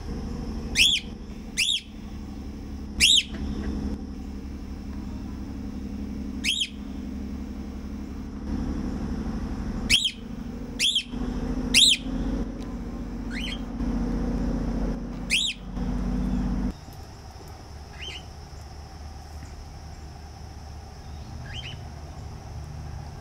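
A bird giving sharp, short chip calls, about a dozen at irregular intervals, loud at first and fainter near the end. Under them runs a low steady rumble that stops abruptly about two-thirds of the way through.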